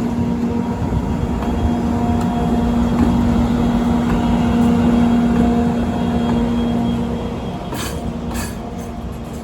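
EF64 electric locomotive pulling a freight train away, its running noise carrying a steady low hum that drops out about seven seconds in as the sound eases off. Two short sharp sounds come near the end.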